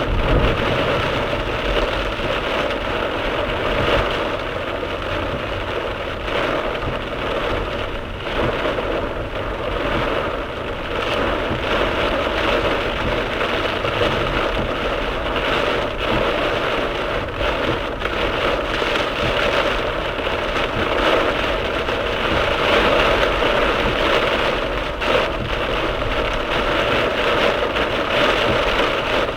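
Torrential rain pelting a moving car's roof and windscreen, heard from inside the cabin through a dashcam microphone, with the hiss of tyres on the flooded road.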